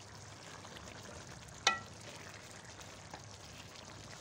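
Chana dal and mutton kofta curry sizzling in a steel pan as a spatula stirs it. About a second and a half in, the spatula knocks the pan once, and the pan rings briefly.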